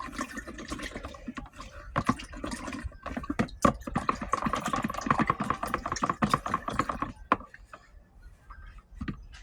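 Water splashing with plastic clicks and clatter as a wet toy figure is handled in water from its reveal pack; it thins out to a few single clicks about seven seconds in.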